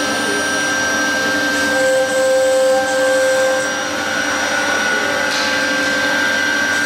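Air-cooled spindle of a CNC router running while cutting fibre board: a steady machine whine of several held tones over a continuous rush of cutting noise. Some of the tones come and go as the head moves.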